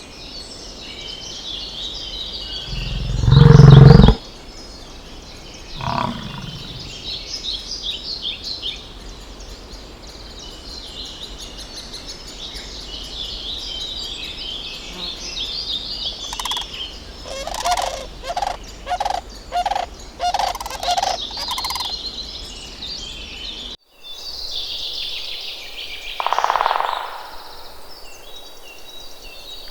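Birds chirping steadily in the background. A loud, deep animal call comes about three seconds in and a weaker one near six seconds; later comes a run of about six short, evenly spaced calls, then one more call near the end.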